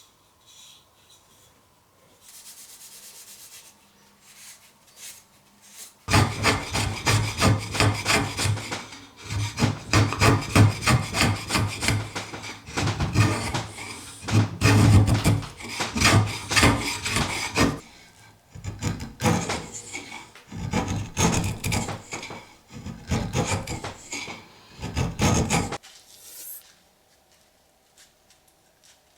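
Rapid, repeated scraping strokes of a hand tool being worked by hand, in runs of strokes with short pauses, starting about six seconds in and stopping shortly before the end.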